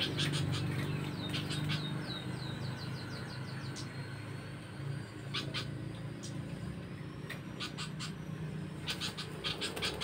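Small birds chirping: a quick run of short, falling chirps in the first two seconds or so, then scattered single chirps, over a faint low hum.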